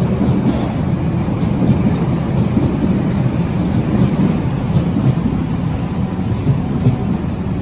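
Berlin U-Bahn large-profile train running on the track: a steady low rumble with faint scattered clicks.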